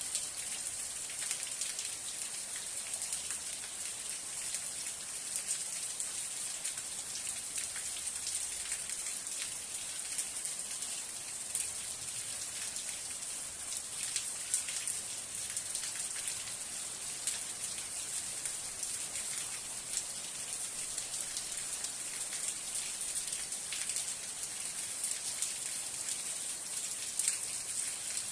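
Steady rain falling, a dense even hiss full of fine drop ticks.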